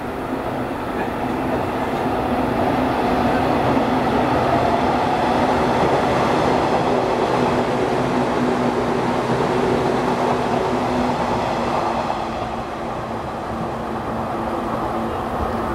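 Electric commuter train passing on the track below, a steady rumble of wheels on rails. It grows louder from about two seconds in, stays at its loudest through the middle, and fades after about twelve seconds.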